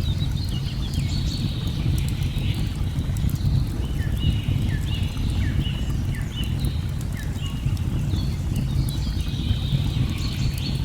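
Steady low rush of falling water, with many birds chirping in quick short notes and scattered light crackling clicks of a log fire.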